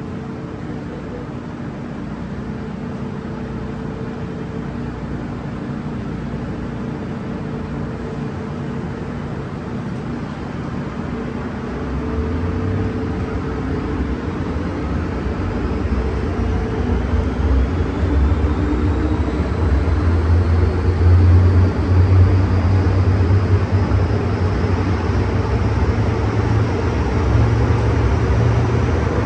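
MTR M-Train electric multiple unit running on the line: a steady hum and rumble that grows heavier from about halfway, with a faint rising whine as the train gathers speed.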